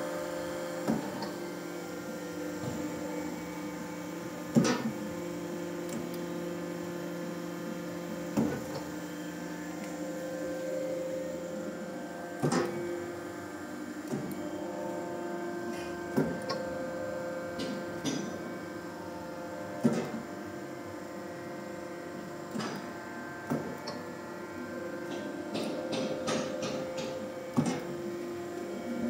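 Lisec TAL 60 extruder running, a steady hum of several tones, with a sharp clunk about every four seconds and lighter clicks in between.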